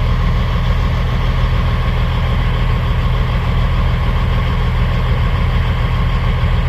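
Kenworth W900 semi truck's diesel engine idling steadily, with a steady high whine over the low engine note.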